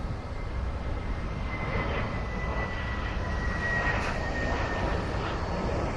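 Jet airliner's engines running, with a thin high whine that slides slowly down in pitch over a steady rumble, growing a little louder.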